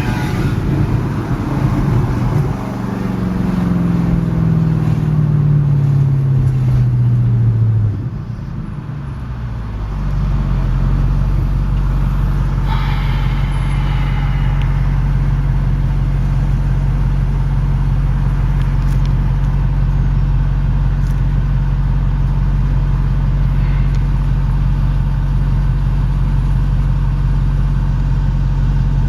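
2001 Audi S8's 4.2-litre V8 running with its exhaust separated between the catalytic converters and the mufflers, so the mufflers are bypassed. The engine note falls steadily as the revs drop, then settles into a steady idle from about ten seconds in.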